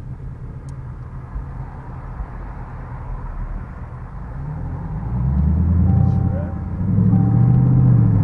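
A car engine rumbling at low speed, then accelerating about five seconds in and getting louder. It eases off briefly around six and a half seconds in, then pulls louder again.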